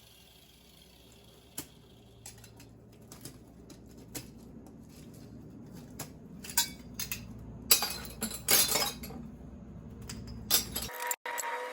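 Small pieces of scrap aluminum clinking and rattling as they are handled. The knocks are sparse at first and grow busier and louder in the second half.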